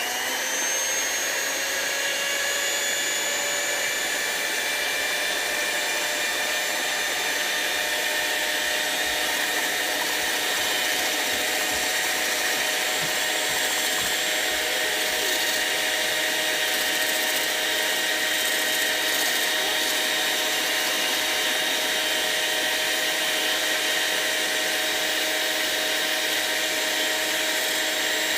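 Handheld electric beater running steadily as it whisks warm milk in a glass cup, frothing it to foam for cappuccino.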